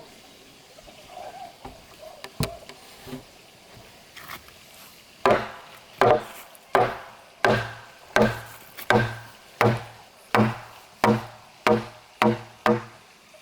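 A hand tool striking wood: a few scattered knocks, then about a dozen hard blows at a steady pace of a little under two a second, starting about five seconds in. Each blow leaves a short ringing tone.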